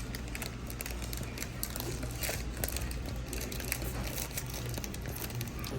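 Irregular crackling and small clicks, like something being crushed or crumpled, over a steady low hum.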